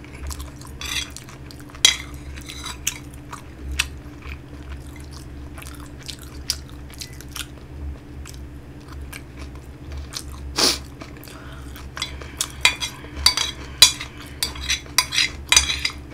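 Close-up eating of kimchi fried rice: chewing, with a metal spoon clicking and scraping against the plate. Sharp clicks come now and then, with one loud click about ten seconds in and a quick run of them near the end.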